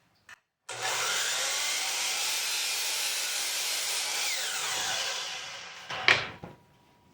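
Power saw cutting through burl wood for about four seconds, then winding down with a falling whine, followed by a sharp knock.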